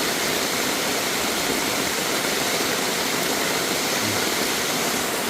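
Rain-swollen runoff rushing steadily down a ditch.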